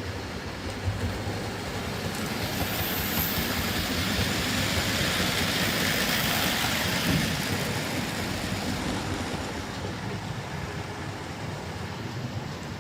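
OO gauge model locomotive and its train running along the track past the microphone: a rushing rattle of motor and wheels on rail that builds to a peak about halfway through and then fades away.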